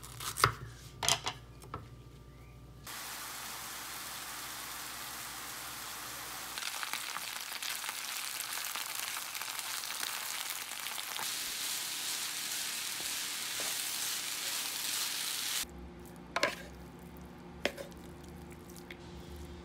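A knife chops bok choy on a wooden cutting board, a few sharp strikes. Then the bok choy sizzles steadily as it fries in a nonstick pan and is turned with a wooden spatula, the sizzle getting louder about six seconds in. Near the end the sizzle cuts off, and there are a couple of clicks of a wooden spatula in a bowl as soba noodles are tossed, over a low hum.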